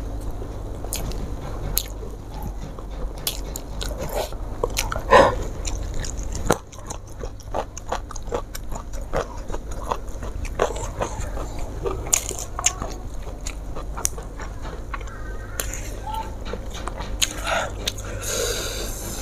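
Close-miked eating sounds: chewing and biting food, including raw petai (stink beans) split from the pod, with many small crunches and wet mouth clicks.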